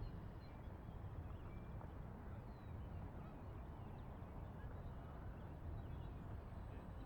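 Faint outdoor background: a steady low rumble with scattered faint bird chirps.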